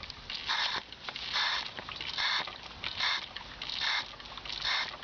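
Hand-pumped manual fluid extractor being worked, each stroke of the handle giving a hiss of rushing air, about one stroke a second and six in all, as it draws engine oil up out of the dipstick tube.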